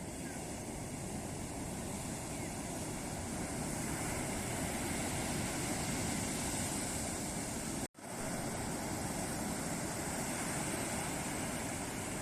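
Ocean surf breaking and washing up on a beach: a steady rush of waves that swells a little midway. The sound cuts out completely for an instant about eight seconds in.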